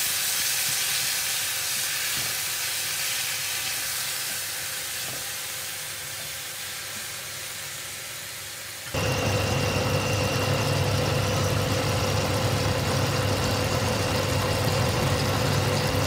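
Bok choy and beef sizzling and hissing in a frying pan, the sizzle slowly dying down. About nine seconds in, the sound switches abruptly to a louder, steady low hum with a thin high whine over the hiss.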